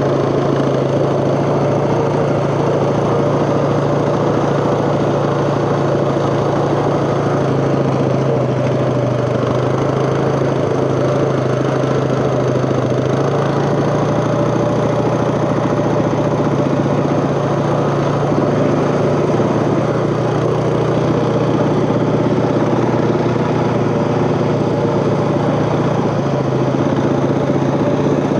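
Off-road vehicle engine running steadily while riding, its pitch shifting only slightly.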